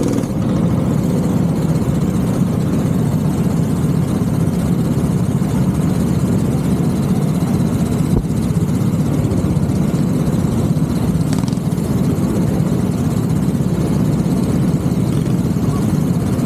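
Go-kart engine running steadily at a fairly even pitch, with no clear revving up or down.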